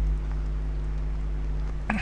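Steady low electrical hum with faint hiss: the background noise of the recording during a pause in the narration.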